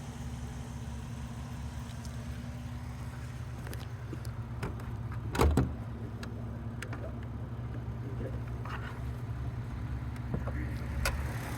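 2004 Volkswagen R32's 3.2-litre VR6 engine idling steadily through its Borla cat-back exhaust, with a single loud thump about five and a half seconds in.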